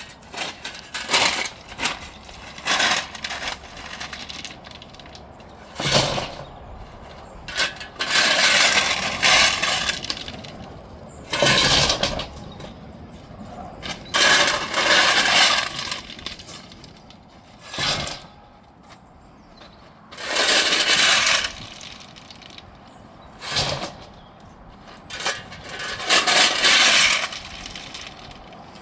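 Irregular loud bursts of crunching and crackling, some short and some lasting a second or two, over a quieter steady background.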